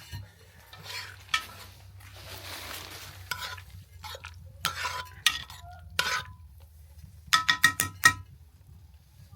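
A spoon or cooking stick stirring and scraping inside a metal cooking pot: scattered ringing metal clinks, a stretch of scraping about two seconds in, and a quick run of about five clanks near the end.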